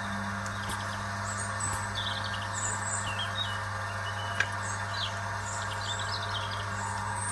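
Small birds chirping and twittering in many short, quick calls throughout, over a steady low hum.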